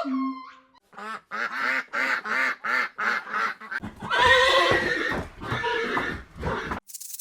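An animal calling: a quick run of short pitched calls, about three a second, building into a louder, harsher drawn-out call that stops abruptly shortly before the end, giving way to a hissing rustle.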